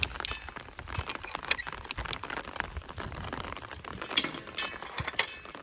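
A pasture gate being shut and fastened: a handful of separate metal clinks and knocks at irregular moments.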